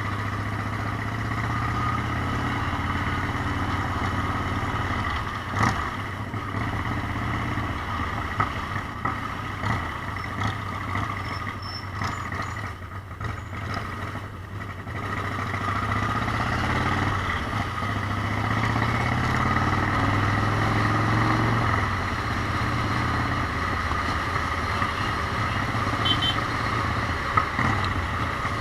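Motorcycle engine running on the road. Its note fades about halfway through, then comes back and climbs as it pulls again.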